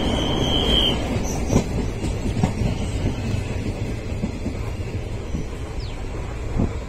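Passenger train running along the track, a steady low rumble with irregular clacks from the wheels, and a brief high wheel squeal in the first second.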